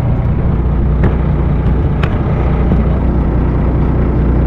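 Boat engine running steadily with a low drone, with two short sharp clicks about a second apart near the middle.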